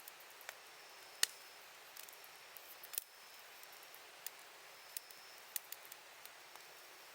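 Wood campfire crackling: irregular sharp pops and snaps from the burning wood over a soft steady hiss, with the loudest pops about a second in and around three seconds.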